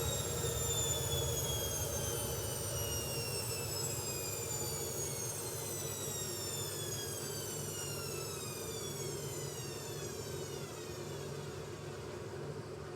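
Hoover Ecologic Computer Washer 1300's drum motor winding down from a spin, its whine falling steadily in pitch and slowly fading as the drum slows.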